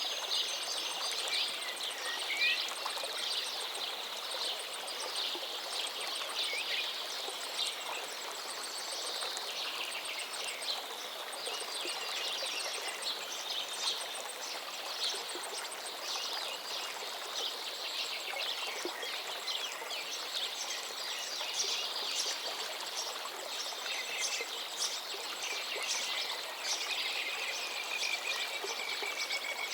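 A river flowing steadily, with many songbirds chirping and calling over it throughout.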